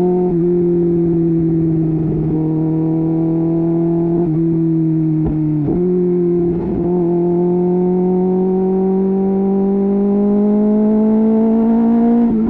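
Kawasaki Ninja H2's supercharged inline-four engine running under way at highway speed, a steady engine note with brief breaks a few times where the pitch steps down, then climbing slowly through the second half as the bike accelerates.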